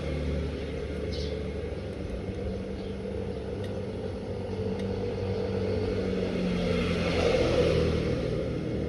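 DELTA 16 kg washing machine running: a steady motor hum with water swishing, which swells briefly about seven seconds in.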